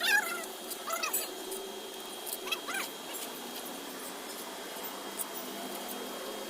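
A dog whimpering: short high whines at the start, again about a second in, and twice more around two and a half seconds in.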